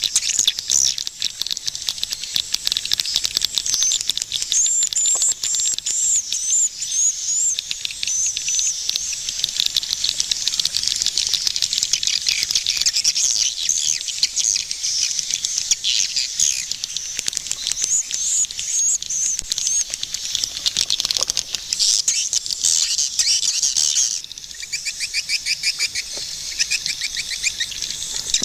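Swiftlets calling: a dense, continuous stream of high twittering chirps and clicks, turning into a quicker run of repeated notes about two-thirds of the way through.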